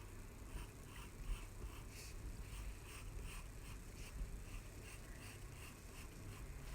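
Faint scratching of a drawing tool on paper: short back-and-forth strokes, about two a second, as lines are sketched.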